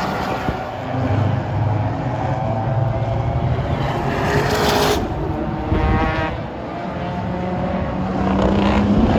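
Race cars running on a circuit, their engine notes rising and falling as they pass and change gear, with a rush of noise that cuts off suddenly about five seconds in.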